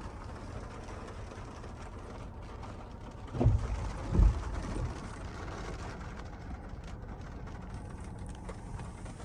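Wind buffeting the microphone as a steady low rumble, with two stronger low gusts or bumps about three and a half and four seconds in.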